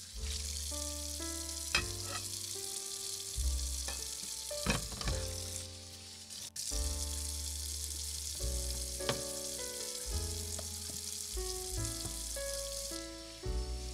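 Chicken and vegetables sizzling in a tiny stainless steel saucepan over a small burner flame, with a metal spoon stirring and knocking against the pan a few times. Background music with a melody and bass line plays along.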